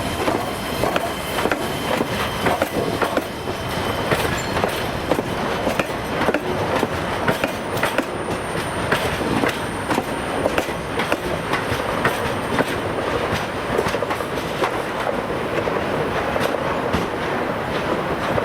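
EG2Tv "Ivolga 2.0" electric multiple unit running past, its wheels clacking steadily over rail joints and turnouts, with a faint high wheel squeal.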